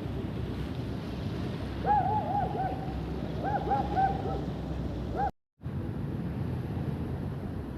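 A bird giving a quick run of short calls, each rising and then falling in pitch, for about three seconds, over a steady rumble of waterfront noise from sea and boats.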